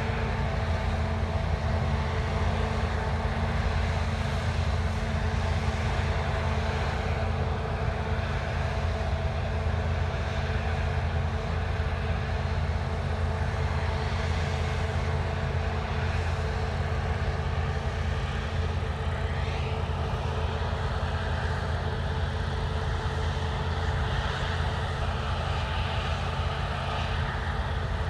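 Heavy diesel farm machinery running steadily at constant engine speed: a deep, even hum with a steady whine above it.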